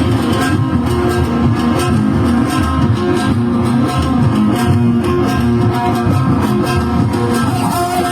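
Band music at a party: a plucked guitar leads over bass and a steady beat in an instrumental passage without singing.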